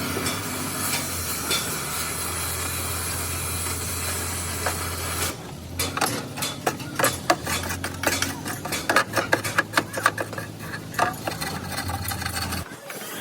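Workshop metalwork: a steady low hum with a hiss, then from about five seconds in a run of rapid, irregular metallic taps and clinks, like tools working sheet metal.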